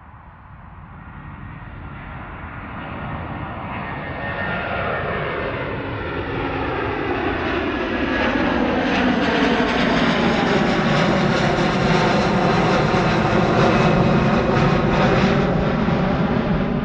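Airbus A330's twin jet engines at takeoff power, growing steadily louder over about eight seconds as the airliner approaches, then holding loud, with a sweeping, phasing roar as it goes by.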